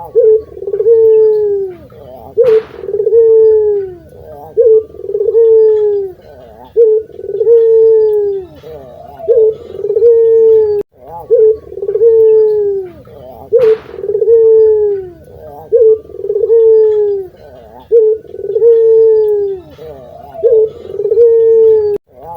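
Barbary dove (puter) cooing over and over, each call a short note followed by a long falling coo, about one call every two seconds.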